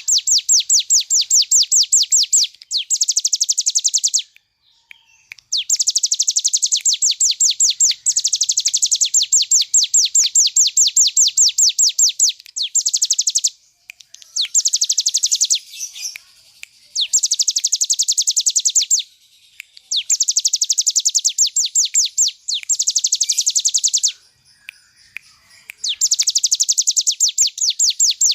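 Ciblek gunung, a prinia, singing its rapid drilling trill ('ngebren'): long runs of quick, high, repeated notes, broken by short pauses between phrases.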